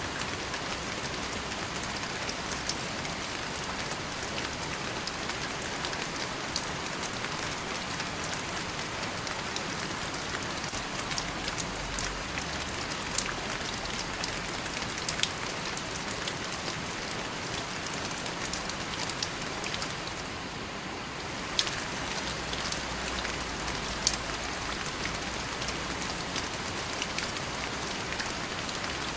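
Steady rain falling on a surface, a constant hiss with scattered sharper drip ticks, easing off briefly about two-thirds of the way through.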